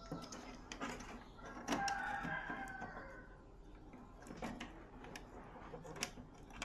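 A rooster crowing once, about two seconds in, lasting about a second and a half, with scattered light clicks and taps around it.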